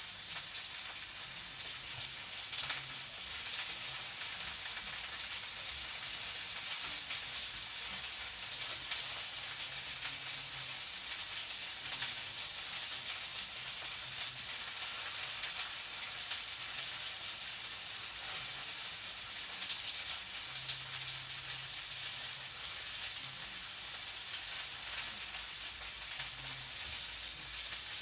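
Food frying in a pan: a steady, crackling sizzle.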